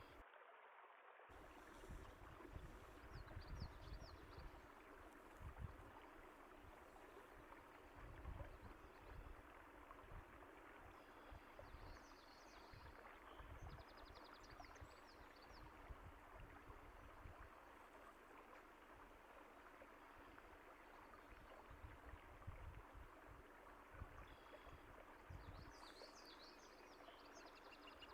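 Faint, steady rush of a flowing stream with irregular low rumbles, and a few soft bird chirps here and there. The sound drops out briefly just after the start.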